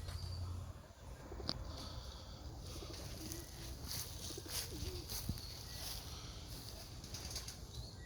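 Domestic pigeons cooing faintly, with a low hum fading out in the first second.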